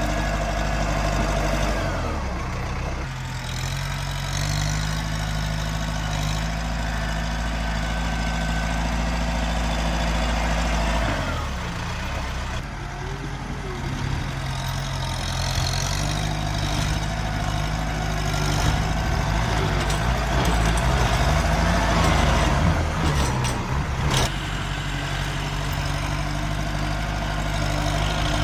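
Tractor engine running, its pitch dipping and rising several times as the revs change under load, louder and wavering for a few seconds before settling back to a steady run near the end.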